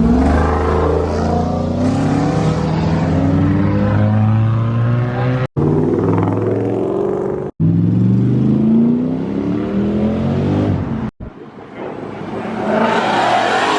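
Loud performance-car engines accelerating hard, the engine note rising in pitch in several separate pulls, with abrupt breaks between them. Near the end a quieter car sweeps past with a rising rush of noise.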